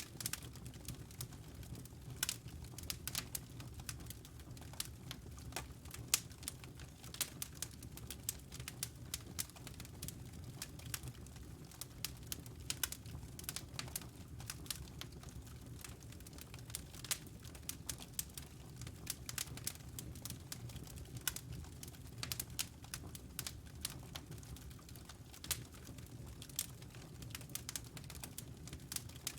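Wood logs burning in a fireplace, crackling with many small sharp pops at irregular intervals over a steady low rumble of the flames.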